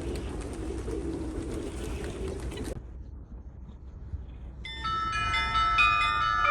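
A steady rumbling background noise that cuts off suddenly about three seconds in. After a short quieter lull, a chiming, bell-like melody of bright overlapping notes starts near the end.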